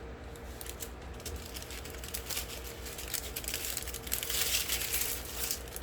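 Small plastic bags of diamond painting drills being handled: plastic crinkling and rustling with light clicks, heaviest about four seconds in.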